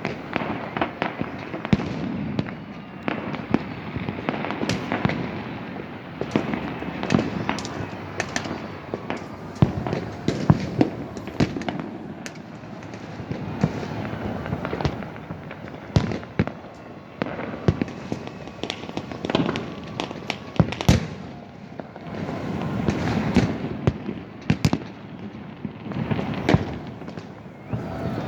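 Many fireworks and firecrackers going off at once, sharp bangs and pops at irregular intervals over a continuous rumble of distant explosions.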